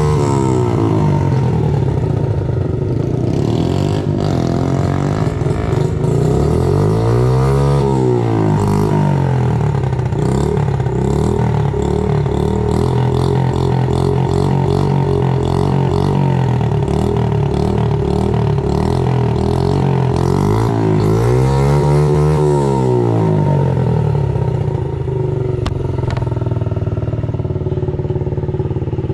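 Honda CRF50 dirt bike's small single-cylinder four-stroke engine running steadily, with two throttle swells where it revs up and drops back, about eight and twenty-two seconds in.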